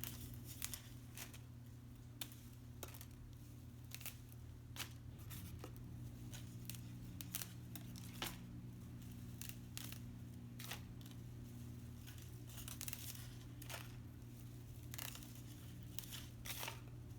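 Dry pine needles (pine straw) being picked apart and snapped by hand: faint, irregular small snaps and crackles.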